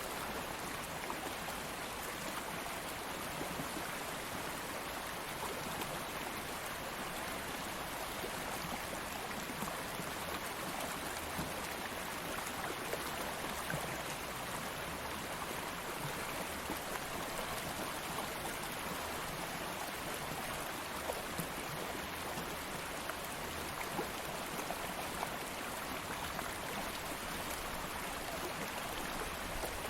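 Stream of flowing water running steadily, a continuous rushing babble with small splashes.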